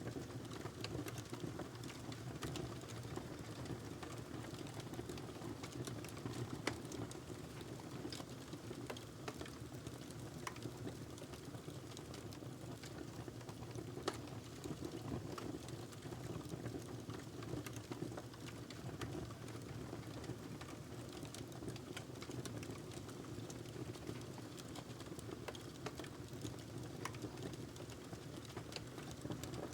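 Wood fire crackling in a fireplace: a steady low rush of burning with irregular sharp pops and snaps throughout, one louder pop about 14 seconds in.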